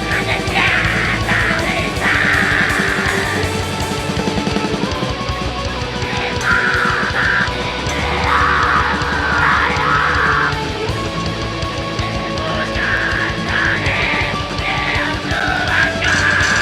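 Live heavy metal band playing loudly: distorted guitars and pounding drums, with harsh shouted vocals coming in several times.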